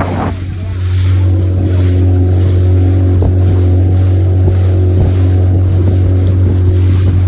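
Boat motor running steadily while under way, a constant low hum, with wind rushing on the microphone.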